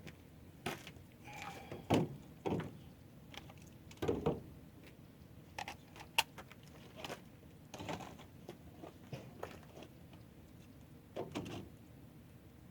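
Irregular clicks, clinks and knocks of hand tools and metal parts being handled.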